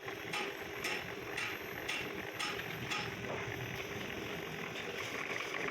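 A metal-cutting machine tool running steadily with a low hum, with sharp mechanical ticks about two a second that stop about three seconds in.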